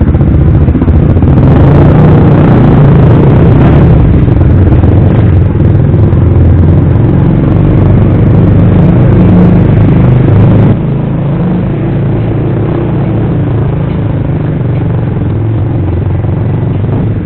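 Suzuki GSX-R150's single-cylinder four-stroke engine running loud and steady through an aftermarket Proliner racing exhaust. About eleven seconds in the sound drops suddenly in level.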